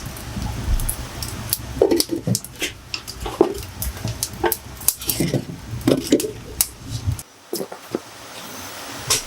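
Irregular clinks and knocks, many in quick succession, over a low rumble that cuts off suddenly about seven seconds in.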